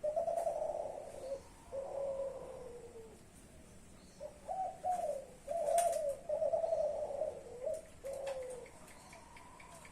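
Spotted dove (derkuku) cooing. The song opens with a short coo and a long falling note, then runs on about four seconds in with several quick coos that end in a drawn-out falling note. A few faint clicks sound between the notes.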